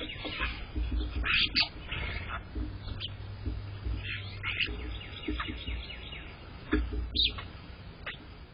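Small songbirds chirping, with many short chirps and a couple of rapid trills, and a low rumble underneath.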